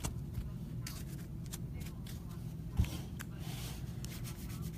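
Trading cards being handled and slid over one another, with faint scattered clicks and one louder knock a little past halfway. A steady low hum runs underneath.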